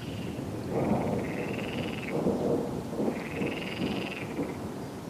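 Thunder rumbling, with crackly surges starting about a second in and dying down near the end, over steady rain. A frog calls twice in long trills, each about a second long.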